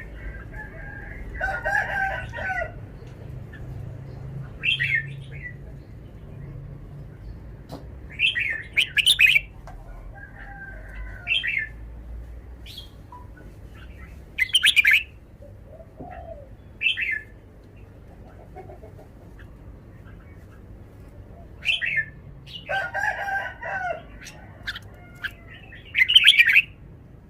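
Red-whiskered bulbul singing: short, bright phrases repeated every few seconds, with longer runs of phrases near the start and near the end.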